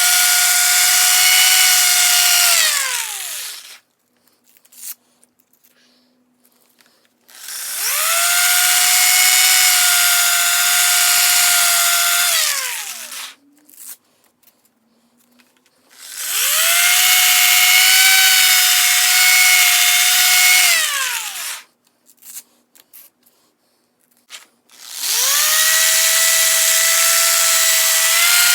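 A small electric power-tool motor whines at a steady high pitch in runs of about four to five seconds. Each time it is let off it winds down with a falling pitch, then spins back up; it stops three times, and a faint low hum sits in the pauses.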